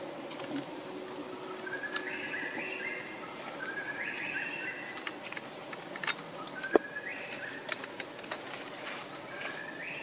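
Forest ambience: a bird repeats a short phrase that steps upward in pitch, about every two to three seconds, over a steady high insect drone. Scattered sharp clicks, one louder about seven seconds in.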